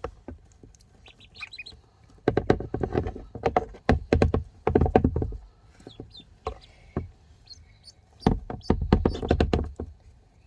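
Ducklings feeding, their bills clicking rapidly in three loud bursts: a little after two seconds in, around four seconds, and about eight seconds in. Short high duckling peeps run in between.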